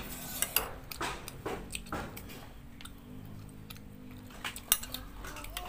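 Chewing and mouth sounds of people eating rice and chicken close to the microphone, with a few sharp clicks of a spoon against a plate.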